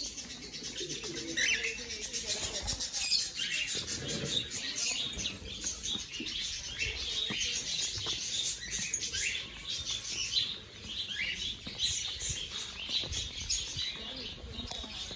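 Many small birds chirping and twittering together, a dense stream of short high chirps.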